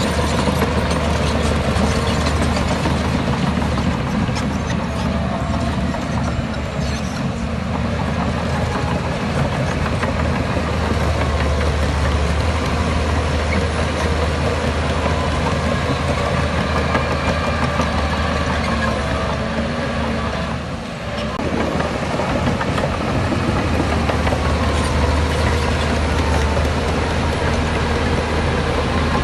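Heavy diesel engines of earthmoving machinery running steadily with a deep drone. The sound drops away briefly about three-quarters of the way through.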